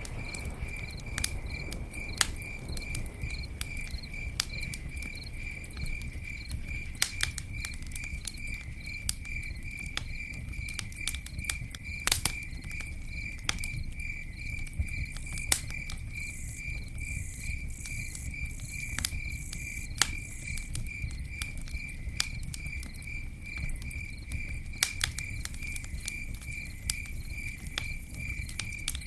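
Campfire crackling, with sharp pops and snaps scattered irregularly over a low steady rustle of burning. A cricket chirps steadily at about three chirps a second throughout, and a higher, buzzier insect joins in briefly around the middle and again near the end.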